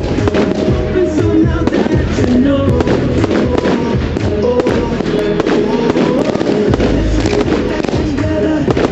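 A firework display going off: many sharp bangs and crackles in quick succession throughout, over loud music.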